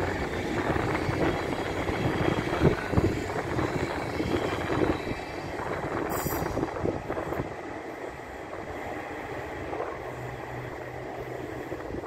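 Passenger trains rolling past on the rails and running away into the distance, the wheel and running noise loudest in the first few seconds and fading over the second half. A brief high hiss comes about six seconds in.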